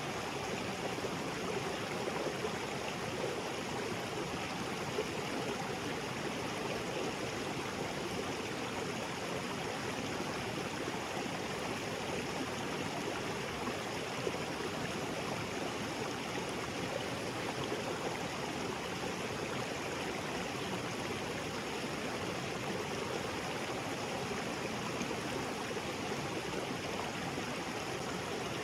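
Small waterfall and creek water running over rocks, a steady, even rush of water.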